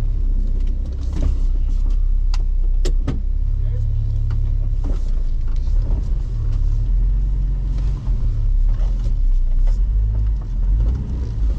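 Jeep LJ's 4.0-litre straight-six engine running at low speed as the Jeep backs up slowly, a steady low drone heard from inside the cab. Several sharp clicks and knocks are heard about two to three seconds in, and a few more later on.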